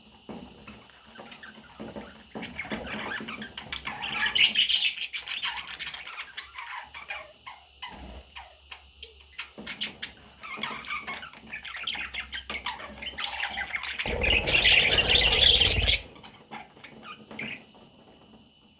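Baby budgerigars squawking in a rapid jumble of short calls. The calls are loudest about four seconds in and again from about fourteen to sixteen seconds in, when a low noise runs underneath them.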